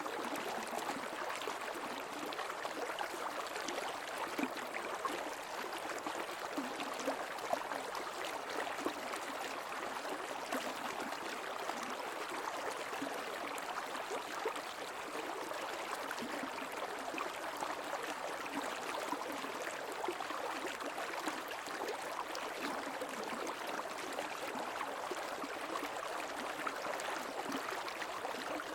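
Creek water flowing over rocks, a steady babbling and gurgling with small splashes flickering through it.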